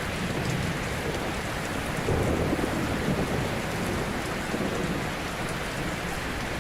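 Ocean surf: waves breaking and washing on a shore in a continuous hiss with a low rumble beneath, swelling a little about two seconds in.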